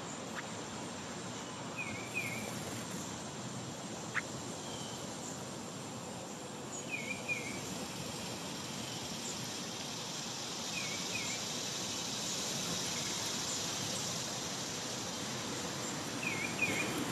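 A songbird repeating a short two-note call, the pair given four times about every four to five seconds, over a steady outdoor background with a thin high insect-like whine.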